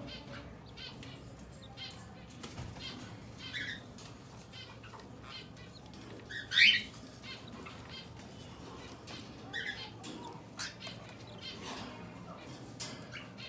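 Cockatiels fluttering their wings and shuffling about, with many short scratches and clicks. A few brief chirps come through, the loudest one about halfway through.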